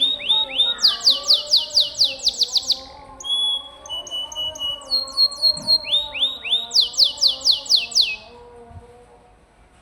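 Domestic canary singing: a fast trill of repeated downward-sweeping notes, a few held and slower notes in the middle, then another fast trill. The song stops about eight seconds in.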